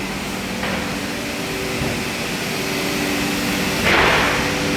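Steady mechanical drone of running CNC router machinery, with the hum of vacuum pumps and dust extraction and several steady tones. A brief hissing swell comes about four seconds in.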